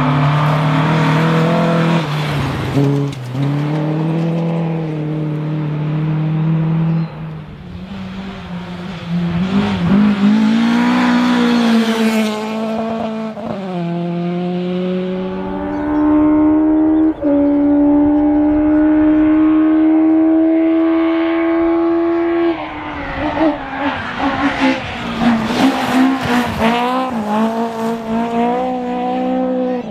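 Rally car engine at full throttle, revving up and changing up through the gears several times, then holding high revs for several seconds. About 23 seconds in it lifts off and the revs fall, with crackling from the exhaust.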